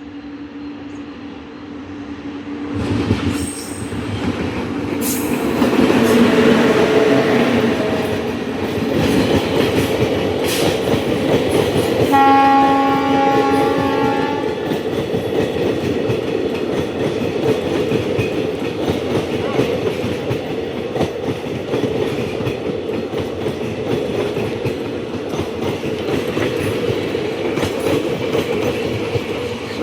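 Indian Railways train coming close and passing, its running noise building over the first few seconds. About twelve seconds in, the locomotive sounds its horn once for about two seconds. After that the wheels clatter steadily over the rail joints as the train rolls by.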